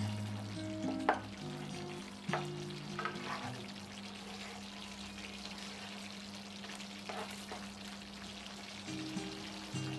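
Thick marinade paste sizzling as it fries in oil in a nonstick pan, stirred with a spatula that scrapes the pan a few times. Soft background music with held low notes plays underneath.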